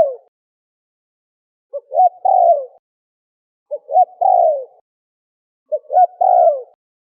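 Spotted dove cooing its repeated call: two short notes and a longer falling coo, three full calls about two seconds apart after the tail of one at the very start.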